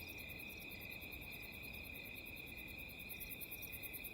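Crickets and other night insects chirring faintly: a steady high trill with a faster, higher pulsing over it, about ten pulses a second.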